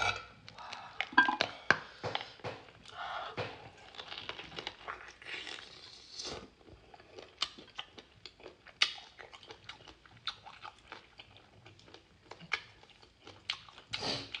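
A person eating close to the microphone: biting into and chewing a translucent wrap stuffed with spicy fillings and green vegetables. There are many irregular sharp clicks and crunches, the loudest about a second in.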